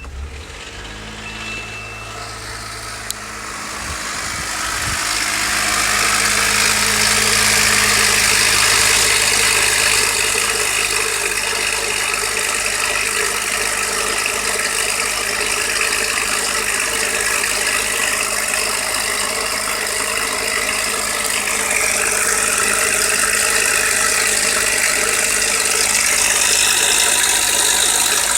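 Suzuki Jimny JB23W's K6A three-cylinder engine idling just after a start, with a knocking rattle that is the sign of a faulty hydraulic timing-chain tensioner. The sound grows louder about five seconds in, then holds steady.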